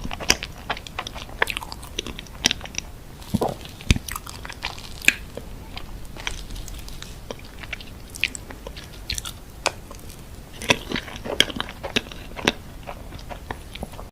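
Close-miked chewing and biting of Korean-style chocolate cupcakes, with many short, sharp mouth clicks and small crunches throughout.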